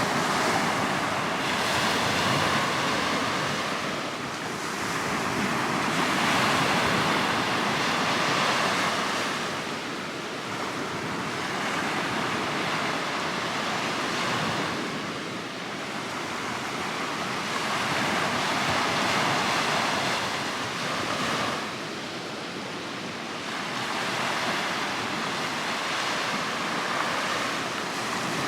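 Sea surf washing on the shore, an even rush of water that swells and fades every few seconds.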